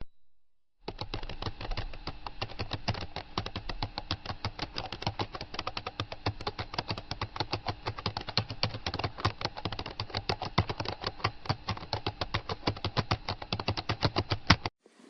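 Fast typing on a computer keyboard: a continuous run of key clicks, many a second, starting about a second in and stopping abruptly near the end.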